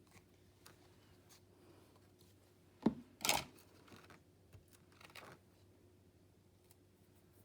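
Paper crafting at a desk: a sharp knock on the tabletop about three seconds in, then a brief rustle of paper being handled, a second smaller rustle a couple of seconds later, and a few faint ticks.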